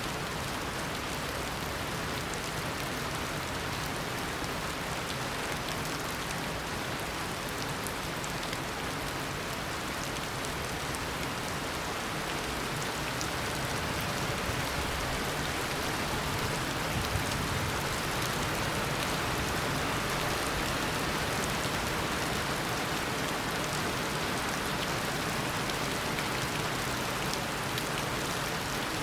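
Heavy tropical rain falling steadily, a dense even hiss of downpour with scattered individual drop ticks, swelling slightly about halfway through.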